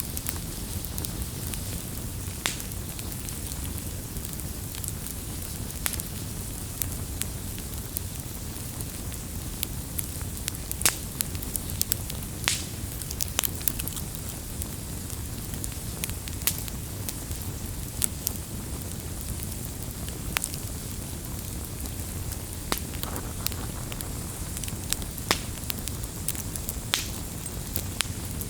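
Campfire burning with irregular sharp crackles and pops over a steady low rumble of flames.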